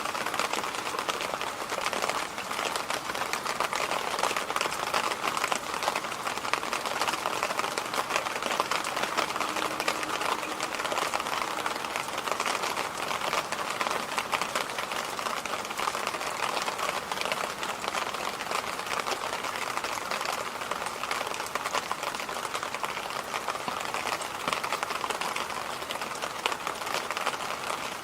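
Electric fan running steadily: an even airy rush with a fast, fine rattle in it.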